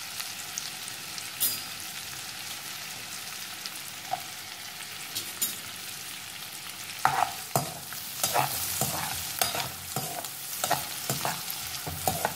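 Chopped onions, ginger-garlic and green chillies sizzling steadily in oil and butter in a nonstick wok. About seven seconds in, a spatula starts stirring them, scraping and tapping against the pan several times a second.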